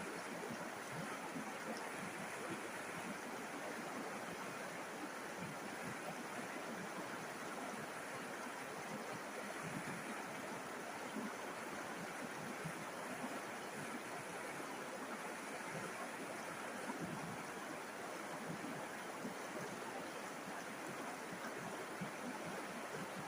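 River water running and splashing over stones in a steady, even rush.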